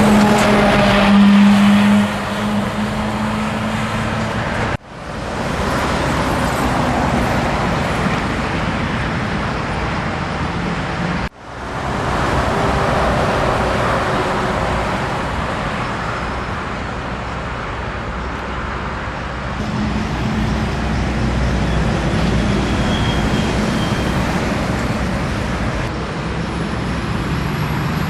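Scania truck running on the road amid steady traffic and tyre noise, with a low engine drone. The sound cuts out abruptly twice, about five and eleven seconds in.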